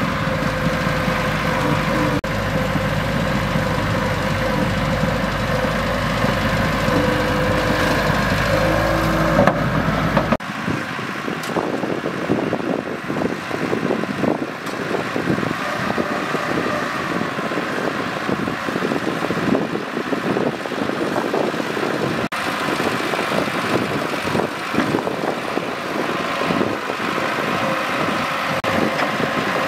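Bulldozer diesel engine running steadily with a deep rumble; about ten seconds in the sound changes suddenly to a busier rattling and clanking with many short knocks and much less low rumble.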